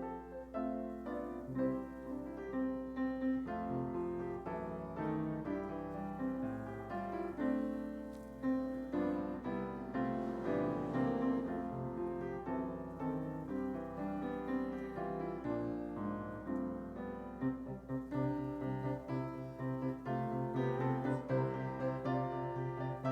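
Piano music: a solo piano playing chords and a melody with held notes.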